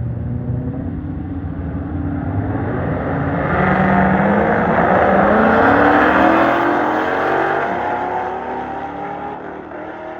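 Performance car engine accelerating hard, its pitch climbing steadily; it grows loudest about halfway through and then fades as the car pulls away.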